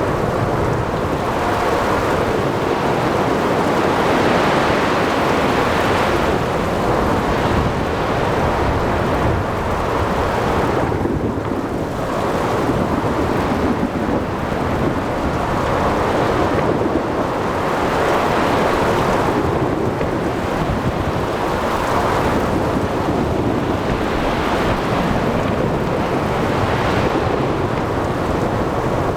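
Ocean thunderstorm: a continuous low rumble of thunder under rain, wind and breaking waves, surging and easing every few seconds.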